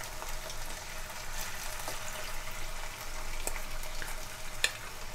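Masala-coated Chicken 65 pieces sizzling and crackling in hot oil in a pan: a steady fine hiss with scattered small pops, and one sharper click about four and a half seconds in.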